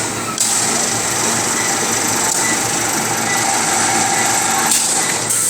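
Automatic 50 kg bagging machine running steadily, a low motor hum under a loud hiss that starts sharply about half a second in and eases near the end.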